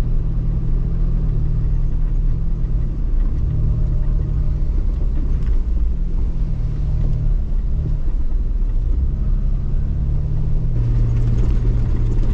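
Jeep Wrangler LJ engine working through deep snow, its revs rising and falling several times, over a low rumble of the drive.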